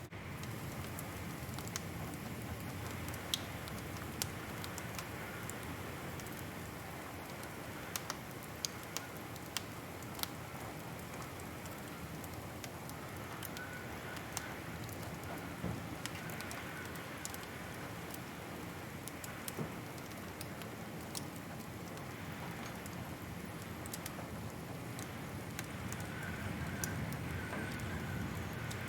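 Wood fire crackling in a fireplace: irregular sharp pops and snaps, a few each second or two, over a steady low hiss and rumble of the burning fire that grows a little louder near the end.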